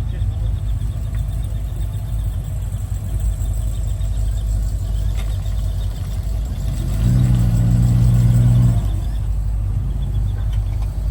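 Car engines running with a steady low rumble. About seven seconds in, one engine note grows louder and holds a steady pitch for nearly two seconds, then drops back.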